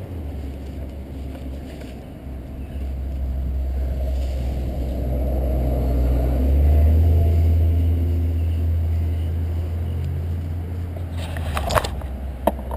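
Low rumble of a motor vehicle passing in road traffic. It swells to its loudest about halfway through and then fades, and a few sharp clicks come near the end.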